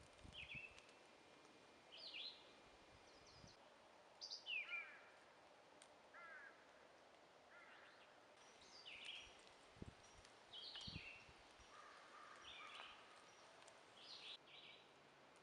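Wild songbirds singing: short high chirps and quick down-slurred phrases, several different calls following one another every second or so over a faint steady hiss. Two soft low thumps sound a little past the middle.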